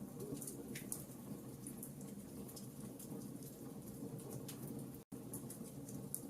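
Fire crackling: a steady low rumble with many small, sharp pops and snaps at irregular intervals. The sound cuts out for an instant about five seconds in.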